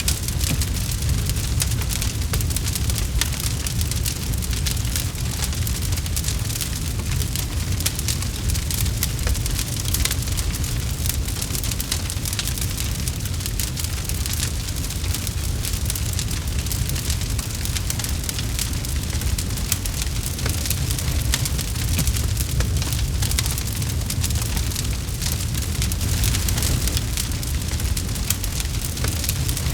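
Campfire burning: a steady low rumble under dense, constant crackling of burning wood.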